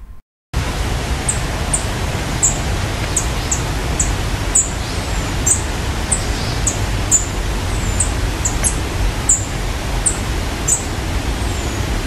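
A small bird giving a series of very high, thin, short call notes, irregularly spaced at roughly two a second, over a loud steady rushing noise.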